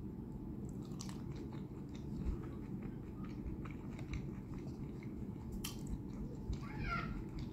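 Close-miked chewing and biting of cooked shrimp dipped in cocktail sauce, with scattered wet mouth clicks.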